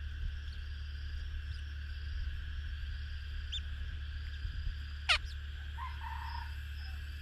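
A few short bird chirps over a steady low hum, with one sharp call sliding steeply downward in pitch about five seconds in.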